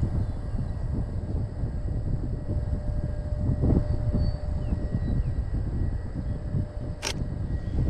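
Wind buffeting an unshielded microphone, a gusty low rumble. A single sharp click about seven seconds in.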